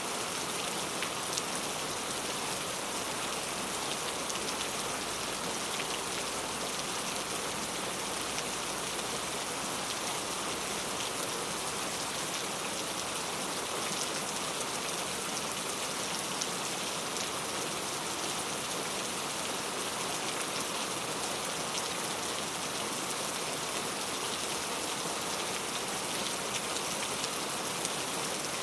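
Heavy rain falling steadily on hard street surfaces, a dense even hiss with many individual drops ticking through it.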